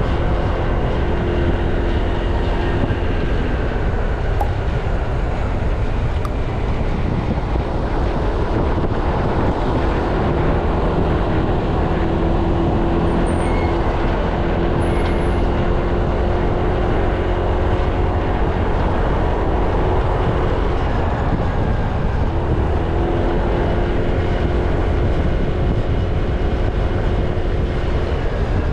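Honda Click 160 scooter's single-cylinder engine running steadily while riding along, with heavy wind rush on the microphone.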